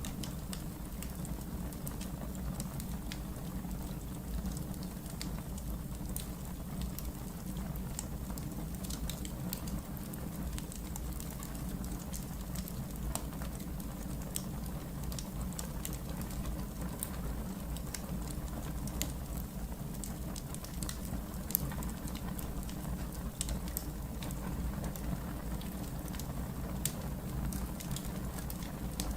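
Wood fire in a fireplace crackling, with frequent irregular small pops and snaps over a steady low rumble.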